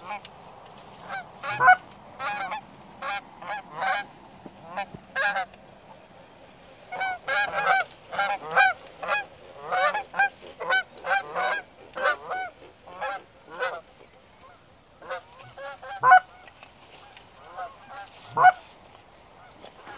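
Geese honking: many short, repeated honks in irregular bursts, thickest in the middle stretch, with a few louder single honks near the start and toward the end.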